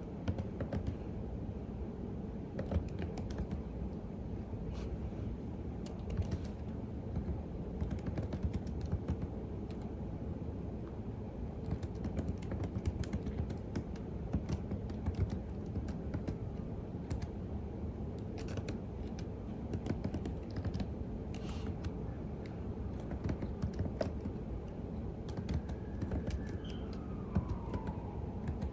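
Computer keyboard typing, a steady run of key clicks over a low background hum. Near the end a faint siren rises and falls behind the typing.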